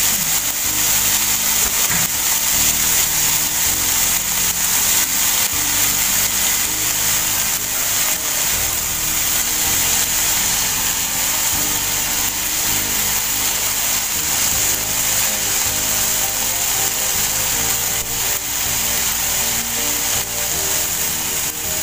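Chopped fresh coriander sizzling in oil in a frying pan, stirred and scraped with a spatula, under background music with held low notes.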